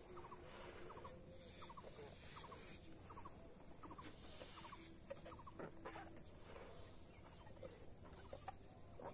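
Faint outdoor ambience: a bird calling in short quick notes, repeated about twice a second, over a steady high-pitched drone.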